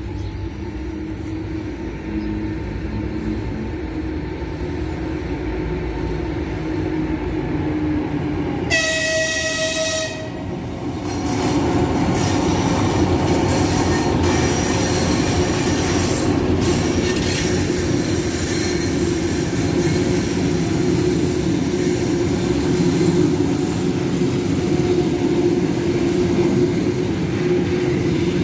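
Passenger train rolling into the station with a steady rumble of locomotive and wheels. One horn blast of about a second and a half comes about nine seconds in. From about eleven seconds the rumble grows louder as the train comes alongside.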